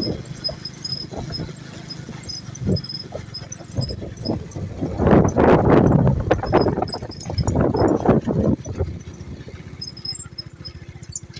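Small motorcycle engine running while riding, with a quick, even low pulsing and a louder rushing noise from about five to nine seconds in.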